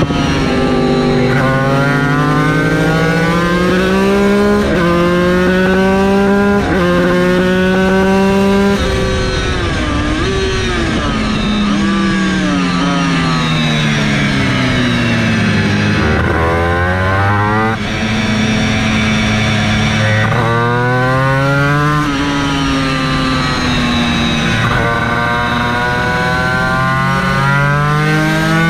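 Yamaha TZ250 two-stroke racing engine pulling hard through the gears, its revs climbing and dropping sharply at each upshift. About nine seconds in the revs waver and fall as the bike slows through the downshifts. From about eighteen seconds it accelerates through the gears again.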